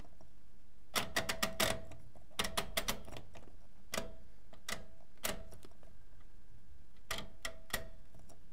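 Privileg Multispar 5110 washing machine making sharp mechanical clicks in irregular clusters over a faint steady background: a quick run of about five near the start, more shortly after, then single clicks and a last short cluster near the end.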